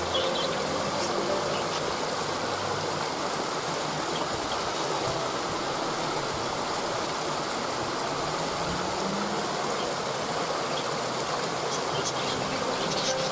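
Waterfall: a steady, even rush of falling water. Brief high bird chirps come just after the start and again near the end.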